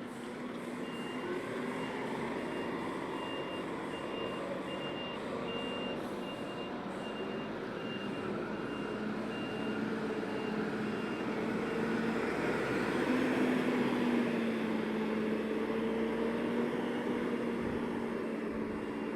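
A lorry's diesel engine running as it manoeuvres, its reversing alarm beeping steadily at an even pace. The beeping stops a little past halfway while the engine keeps running and grows louder.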